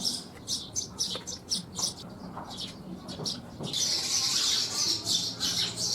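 Small birds chirping repeatedly in short, high-pitched notes, thickest about four seconds in.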